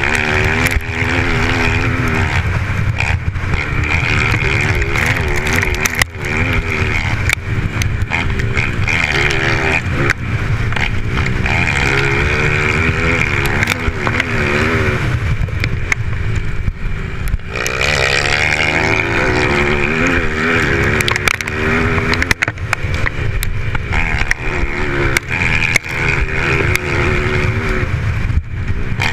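Dirt-track racing motorcycle engines running hard, the pitch repeatedly rising and falling as the riders open and close the throttle and shift gears.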